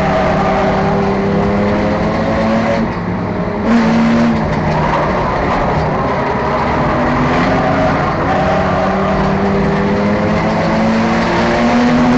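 Enduro race car engine running hard at speed, its pitch climbing under throttle. It drops briefly about three seconds in as the throttle comes off, then winds up again, with another rise and fall later on.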